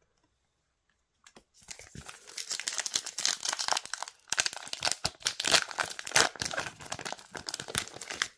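A trading card booster pack wrapper being torn open and crinkled in the hands, a dense run of crackling that starts about a second and a half in, with a short pause a little past the middle.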